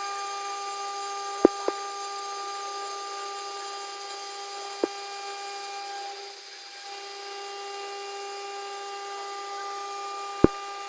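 CNC router spindle running with a steady whine while machining wood. A few sharp clicks cut through it, the loudest near the end.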